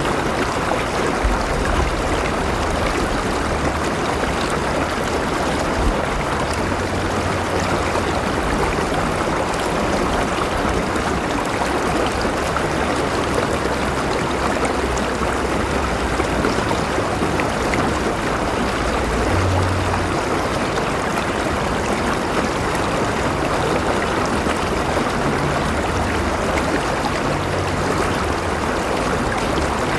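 A river flowing steadily over rocks, a continuous rushing and gurgling of water.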